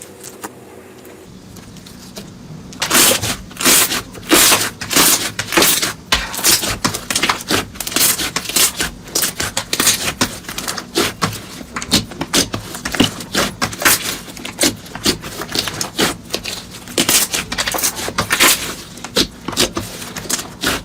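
Slime being squeezed and pressed by hand, giving quick irregular crackling clicks and pops that start about three seconds in after a quieter opening.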